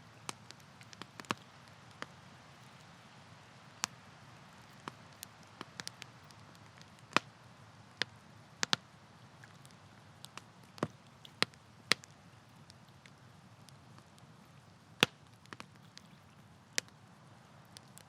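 Campfire crackling: irregular sharp pops and snaps of burning wood, a handful of them much louder than the rest, over a faint steady background.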